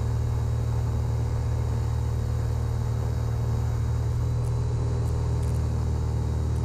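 Light aircraft's piston engine and propeller droning steadily in the cockpit, throttled back on the landing approach.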